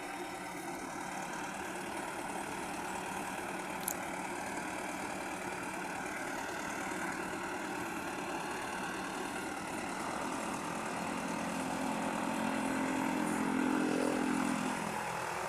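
Farm tractor's diesel engine running steadily, with a single sharp click about four seconds in. A deeper engine hum swells over the last few seconds and drops away just before the end.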